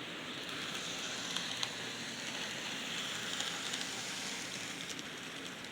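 Model train running along the layout track, its wheels rolling on the rails with a steady crackling hiss and scattered small clicks, growing louder through the middle and easing off near the end as it passes.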